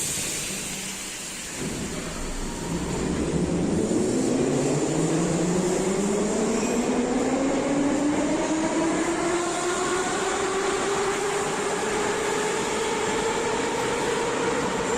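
Moscow Metro 81-717.5M/81-714.5M 'Nomernoy' train accelerating, its traction motors and gears giving a whine that climbs steadily in pitch as it gathers speed, over the rumble of the wheels on the rails.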